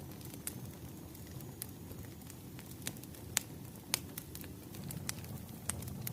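Wood fire crackling: a steady low rumble of burning logs with scattered sharp pops, the two loudest a little after three seconds and just before four seconds in.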